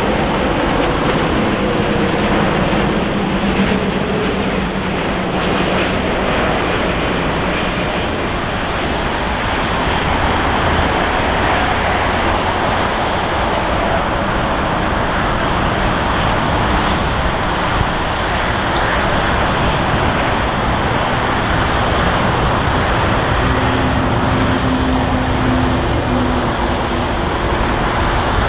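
Airbus A350-900 jet airliner's Rolls-Royce Trent XWB engines, a steady jet rumble with faint humming tones near the start and again near the end.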